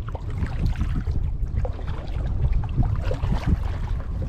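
Kayak paddle dipping into the water, with splashing and dripping against the hull, over a steady low wind rumble on the microphone.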